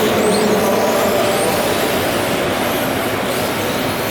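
Radio-controlled model cars racing, their motors whining up and down in pitch as they accelerate and brake, over a steady background din.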